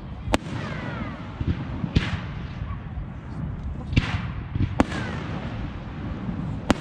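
Fireworks going off: about five sharp bangs spread unevenly over several seconds, with short falling whistles after the first bang and again after the fourth. A steady low rumble runs underneath.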